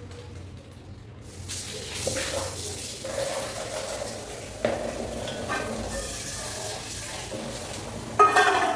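Long hair being washed under a running tap: water hissing and splashing onto wet hair, with scattered small knocks. A short, louder sound comes near the end.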